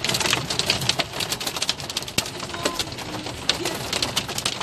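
Heavy rain pattering on a nearby surface: a dense, irregular clatter of drops ticking close to the microphone.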